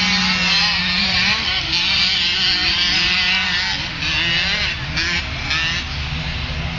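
Small pit bike engines buzzing and revving, their pitch wavering up and down as riders work the throttle.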